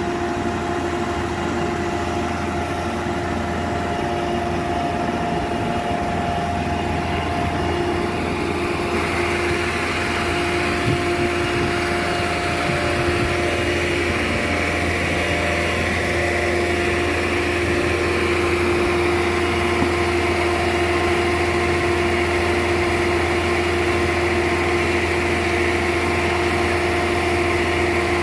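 An engine running steadily with a constant hum, picking up and growing a little louder about nine seconds in.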